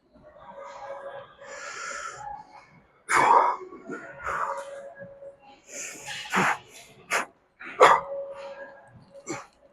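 A man's forceful breaths and short grunts in irregular bursts, the sound of straining through heavy leg reps.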